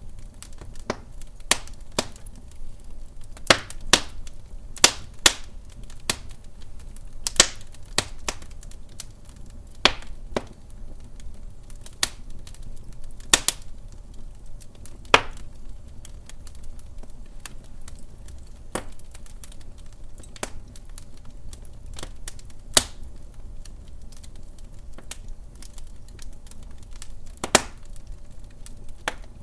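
Wood fire crackling in a fireplace: burning logs give off irregular sharp pops and snaps, some loud and some faint, over a faint low rumble.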